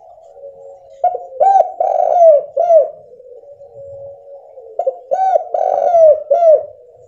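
Spotted dove (tekukur) cooing: two song phrases of a few low, arched coos each, the first starting about a second in and the second about five seconds in.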